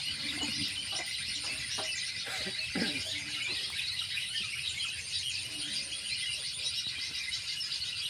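Small birds chirping and twittering in the tree canopy: a dense, continuous chorus of short high calls, with a faint steady high-pitched tone above it.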